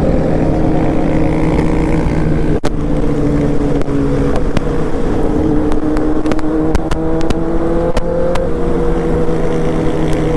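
Several superbike engines and exhausts running together at a steady road speed, very loud, their pitches drifting up and down a little, among them a Kawasaki ZX-10R riding close. A sharp knock comes about two and a half seconds in, and sharp clicks are scattered through the second half.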